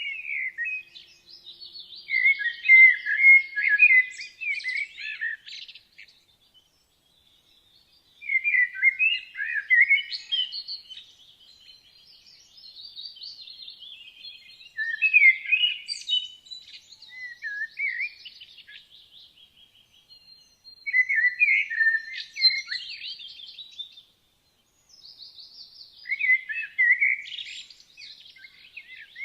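Woodland songbirds singing: bright, warbling song phrases of a few seconds each, coming about every six seconds with short pauses between.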